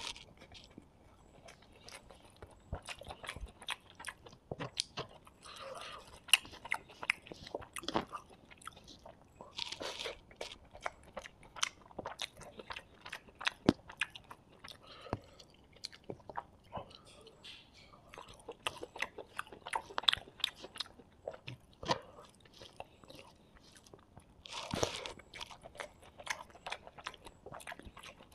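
Close-miked mouth eating sounds: chewing and biting on hand-fed fried rice, with frequent sharp crunches and wet mouth clicks in an irregular run, and a few louder crunchy bursts about ten seconds in and near the end.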